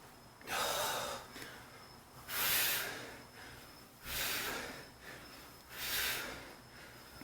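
A man breathing hard during body squats: four loud, noisy breaths, about one every two seconds, in time with the reps.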